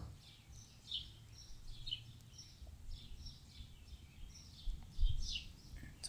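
Faint twittering of small birds, a string of short high falling chirps several a second, over a low rumble.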